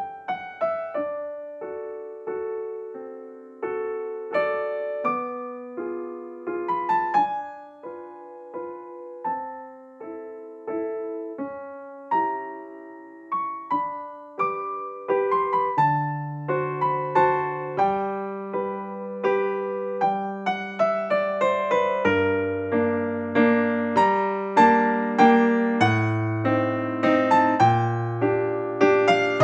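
Background piano music: a gentle melody of struck, fading notes, joined by a bass line about halfway through and growing fuller and louder near the end.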